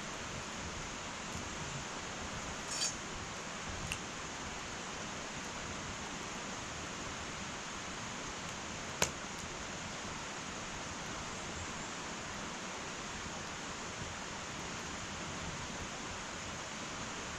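Wood fire burning in an irori hearth: a steady soft hiss with small crackles about three and four seconds in, and one sharp pop about nine seconds in.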